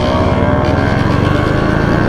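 Motorcycle engine running under way in a group ride, a steady engine note over wind and road noise.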